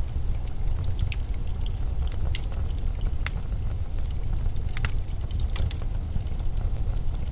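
Blizzard wind as a steady low rumble, with irregular sharp crackles and ticks scattered through it.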